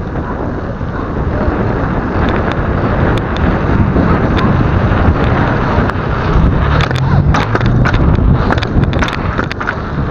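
Wind rushing over an action camera's microphone while riding a mountain bike, a loud rumbling buffet. Sharp clicks and rattles come in from about two seconds in.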